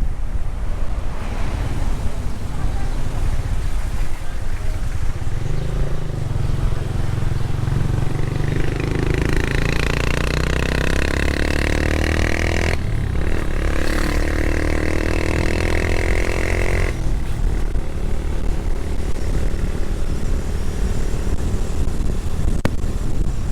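Wind buffeting the microphone while riding on a motorcycle in traffic. Partway through, an engine speeds up with a rising whine, drops in pitch at a gear change, then rises again before fading back into the wind.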